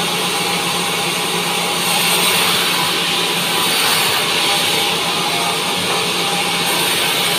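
Band sawmill running, a steady dense hiss over a constant low hum, growing a little louder about two seconds in.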